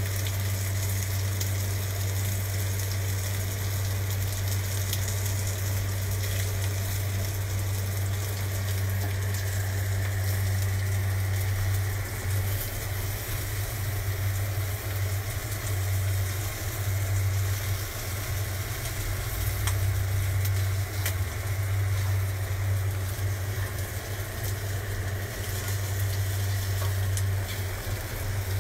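Wiener sausages and fried eggs sizzling steadily in oil in a frying pan on a gas burner, with a steady low hum underneath.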